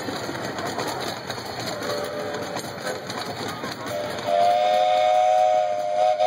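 Miniature ride-on train cars clattering past on their rails, with the train's chime whistle sounding a short chord about two seconds in, then a long, loud multi-note blast from about four seconds in that cuts off sharply at the end.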